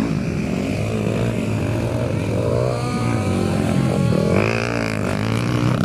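Several motocross bike engines running at once, revving so their pitch rises and falls repeatedly, with overlapping tones from more than one bike.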